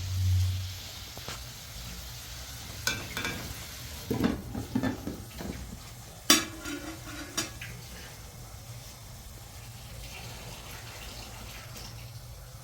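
Food sizzling in a pan under a steady hiss, with scattered clinks and knocks of a utensil stirring against the pot, the sharpest clack about six seconds in.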